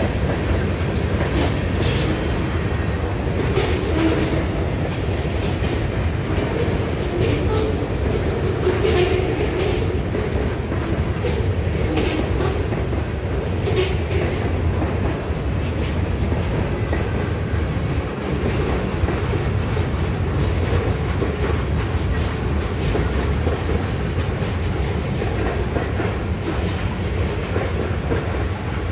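Mixed freight cars of a CSX manifest train rolling past the crossing: a steady low rumble with irregular clacks of wheels over the rail joints. No crossing bell rings, because the crossing's electronic bell is dead.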